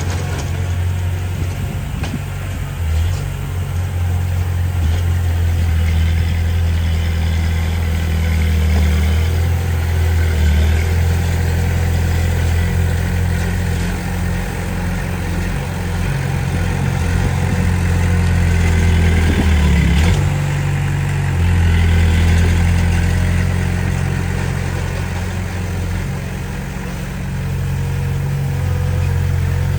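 Small crawler bulldozer's diesel engine, a Komatsu D20P, working steadily, its low rumble swelling and easing with the load, with a brief drop and change in pitch about twenty seconds in.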